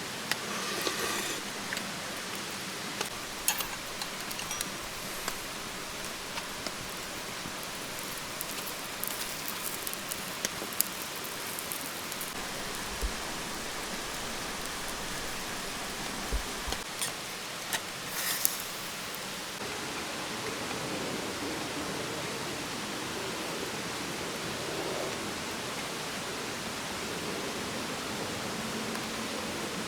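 Steady rain falling, with scattered sharp drip taps.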